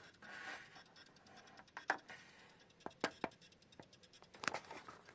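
Faint scattered clicks and scratches from hands handling a Wi-Fi router and its power adapter, over a faint hiss: the router's chiado, the sign of an inadequate power supply.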